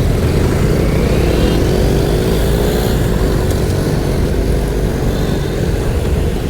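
A motor vehicle's engine running over a steady low rumble, its pitch dipping and then rising again about a second in.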